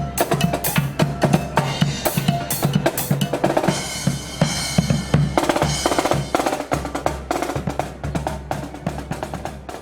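Marching band drum line playing a cadence: snare drum rolls and rim shots over bass drum beats, fading away over the last few seconds. Strong wind rumbles on the microphone underneath.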